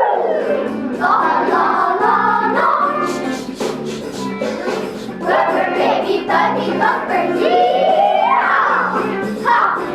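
Children's choir singing a song with instrumental accompaniment; the voices slide up and down in pitch, with a rising sweep near the end.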